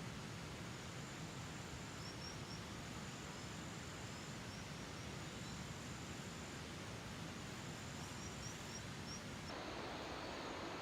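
Steady outdoor hiss, with an insect trilling on one high note in stretches of about a second and a small bird giving short quick series of chirps about two seconds in and again near the end. About a second before the end the hiss grows louder and fuller.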